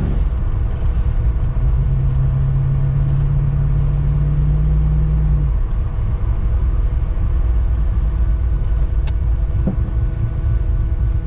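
Holden VL Commodore Turbo's turbocharged 3.0-litre straight-six pulling with a steady engine tone that drops away about five and a half seconds in, leaving a low driving rumble. A single sharp click sounds near the end.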